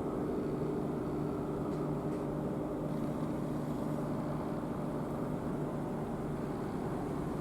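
Steady low machinery hum with several held low tones, from a ship's engines or generators running.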